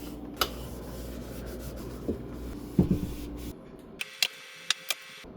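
Scrubbing and wiping on refrigerator surfaces over a steady low hum, with a few knocks, including a cluster about three seconds in. After a sudden change, a quieter stretch follows with several sharp clicks.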